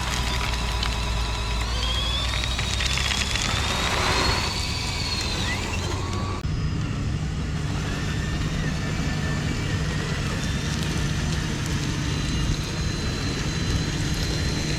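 Small electric motors and gearing of radio-controlled construction models whining. The pitch wavers, rising and falling during the first few seconds. About six seconds in the sound changes abruptly to a steadier low hum.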